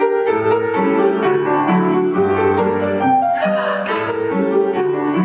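Piano playing the accompaniment for a folk-dance barre exercise, a steady run of notes with a clear bass and chords.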